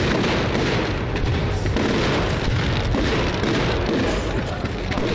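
Fireworks display going off in a dense, continuous run of booms and bangs.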